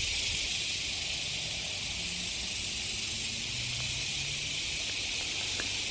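Steady, high-pitched droning hiss of an insect chorus that holds at one level throughout.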